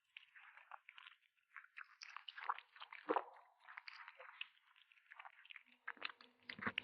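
A kitten chewing and biting meat: a close run of irregular quick bites and chews, loudest about three seconds in.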